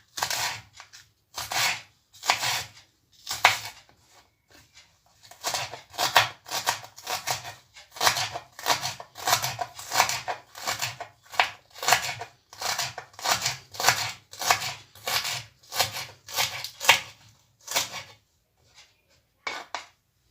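Knife chopping vegetables finely on a cutting board: a few separate strokes at first, then a steady run of about two to three cuts a second that stops shortly before the end.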